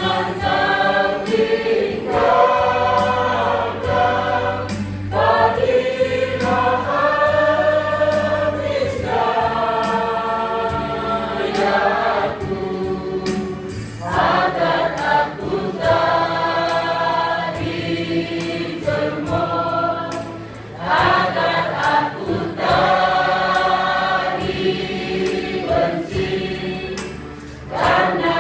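Elderly church choir singing together, phrase after phrase, over low held bass notes, with brief breaths between phrases twice near the end.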